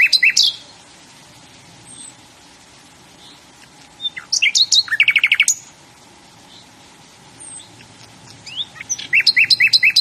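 A songbird singing a short song of rapid high notes, repeated about every five seconds. Between the songs there is a steady low background hiss.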